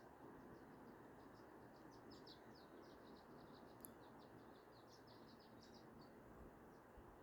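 Faint birdsong at dawn: small birds twittering in quick runs of short high chirps, busiest in the middle, over a steady low rush of flowing water.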